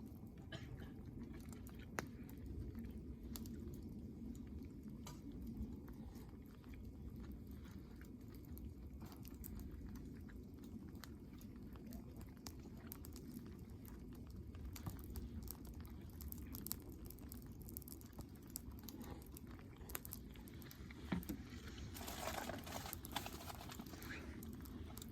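Wood campfire crackling, with scattered sharp pops over a steady low rumble. A louder rustling noise comes near the end.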